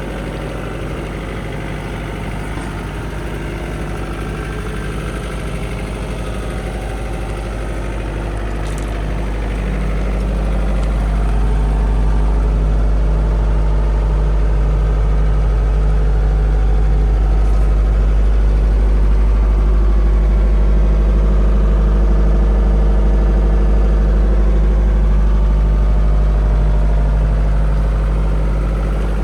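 Bobcat Toolcat 5600's diesel engine running at a steady idle, growing louder about ten seconds in and then holding steady.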